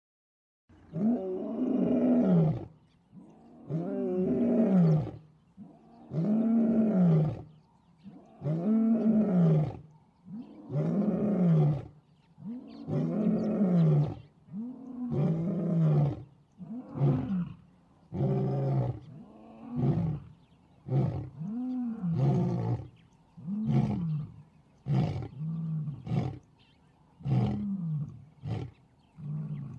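Lion roaring bout: a series of deep, moaning roars, each rising and falling in pitch. They grow shorter and come faster, trailing off into a run of short grunts.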